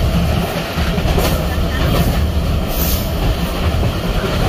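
Passenger train running along the track: a steady low rumble with a few sharp clacks of the wheels over the rails.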